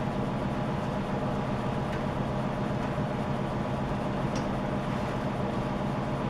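Steady, unchanging hum with an even hiss above it, from a running machine in the workshop, with one faint tick about four seconds in.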